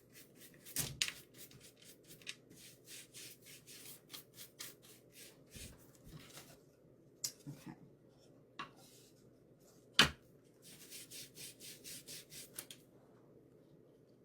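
Quick repeated scrubbing strokes against a wooden craft shelf as paint is worked over it, several strokes a second in runs, with two sharp knocks, the louder one near the end.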